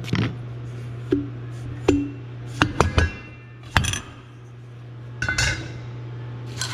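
Metal parts of a golf cart drive clutch clinking and knocking as they are handled and taken apart: a string of sharp clinks, some with a brief metallic ring, at irregular intervals.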